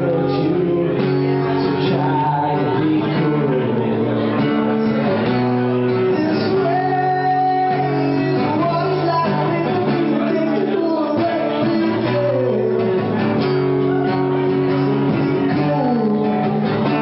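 Acoustic guitar played live, with a voice singing over it.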